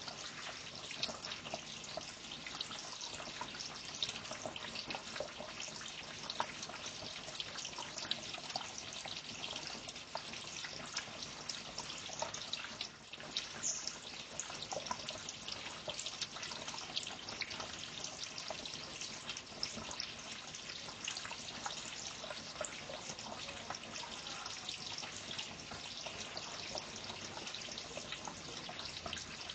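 Steady trickling water: a continuous patter of small drips and splashes.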